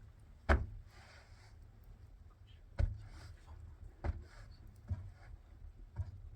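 A handful of sharp knocks or thuds at irregular intervals, about five in all, the first two the loudest.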